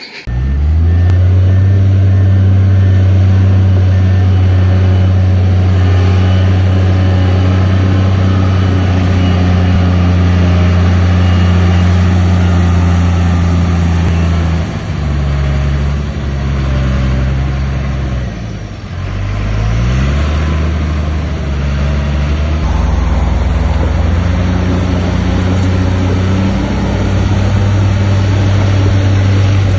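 Heavy earthmoving machinery's diesel engine running loud and steady under load. Its engine speed sags about halfway through, then climbs back up a few seconds later and holds.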